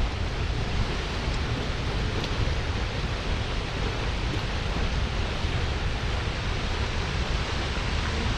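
Steady roar of the Seljalandsfoss waterfall, with wind rumbling on the microphone.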